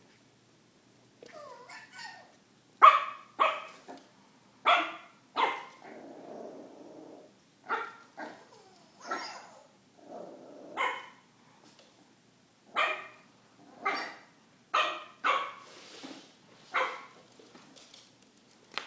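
A border collie/blue heeler mix puppy barking in short, sharp, high-pitched yaps, about fifteen in irregular runs, at a toy dog that scares it.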